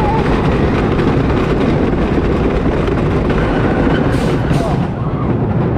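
Wooden roller coaster train running along its track, a loud steady rumble, with two short hisses about four seconds in.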